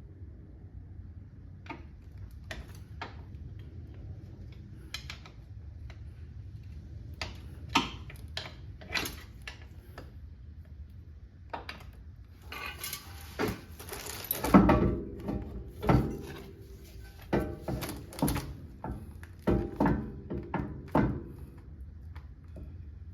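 Scattered knocks and clanks of hand tools and parts during work on a car's axle, over a low steady hum. The knocks grow busier and louder after about half-way, with the loudest thump, followed by some ringing, about two-thirds through.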